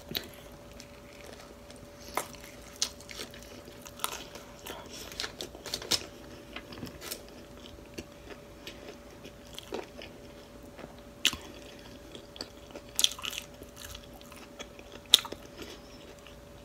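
Close-up chewing of a soft flour-tortilla chicken taco with lettuce and cheese, heard as irregular small wet clicks and smacks of the mouth.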